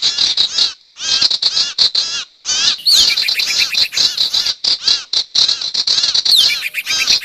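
Sirtu bird song played as a trapping lure: fast runs of short, high, arched chirping notes, several a second, broken by two brief pauses in the first two and a half seconds.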